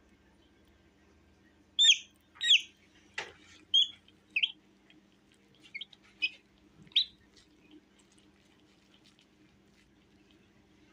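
A hatching chick peeping from inside its egg: about nine short, high peeps over some five seconds, the first two the loudest, with one sharp tap among them.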